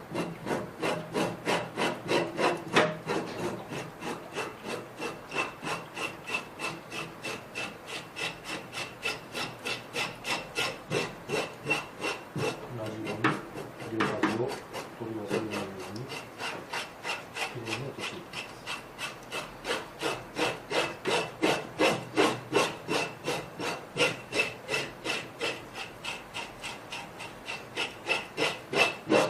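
Scale remover scraping the scales off a flounder's skin in quick, even strokes, about three a second, with a brief irregular stretch about halfway through.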